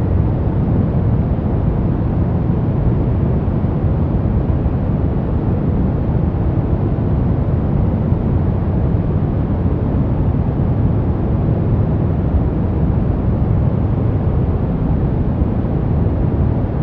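Constant noise, as used for sleep and relaxation, holding perfectly steady throughout. It has a deep, rumbling tone with only a faint hiss on top.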